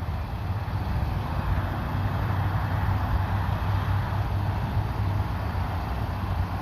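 Steady car and road noise: an even low engine hum under a rushing haze, with no sudden events.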